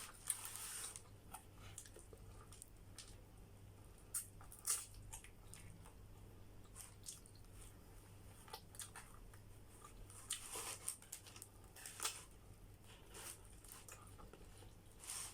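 Faint close-up eating sounds: biting and chewing, with scattered soft crunches and mouth clicks, a few louder bites half a second in, near 5 s, around 10 s and at 12 s, over a low steady hum.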